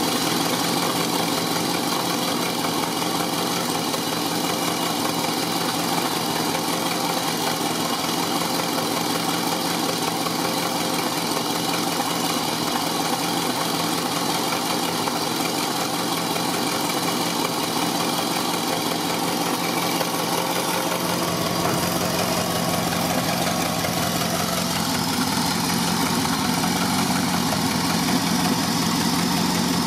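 A 1957 Ford Fairlane 500's Thunderbird Special Y-block V8 idling at about 650 rpm, fully warmed up, on its Holley Sniper 2V electronic fuel injection. The engine runs steadily, and its low end grows fuller about two-thirds of the way in.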